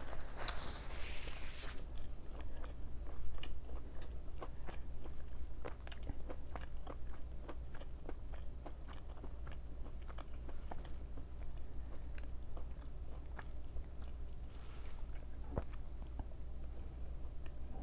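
Close-miked mukbang eating: a person biting and chewing breaded fried plant-based chicken nuggets, with many small crunching clicks at an irregular pace.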